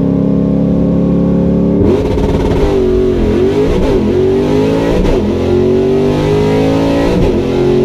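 Loud drag-car engine held at steady revs, then from about two seconds in revved up and down several times with a rasp over it, then held again with the revs slowly climbing.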